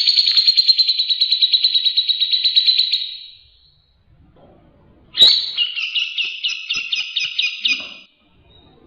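Cucak jenggot (grey-cheeked bulbul) singing: a long, rapid chattering trill that fades out after about three seconds. After a pause comes a second, slower run of distinct notes, with a sharp first note.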